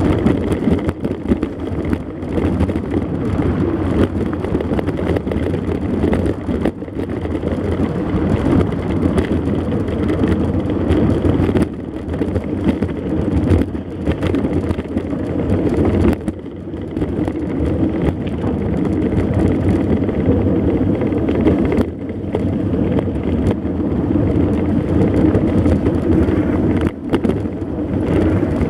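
Mountain bike in motion on a trail: a steady rumble of tyres and wind on the camera microphone.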